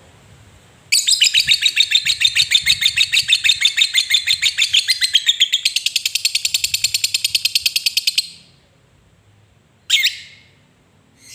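Lovebird giving a long 'ngekek' chattering trill: a rapid run of high, harsh notes at about ten a second, lasting about seven seconds and quickening about two-thirds of the way through, followed by a single sharp chirp.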